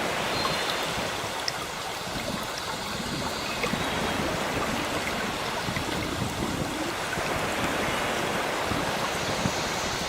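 Steady rush of sea waves washing in, with a few faint, brief bird chirps.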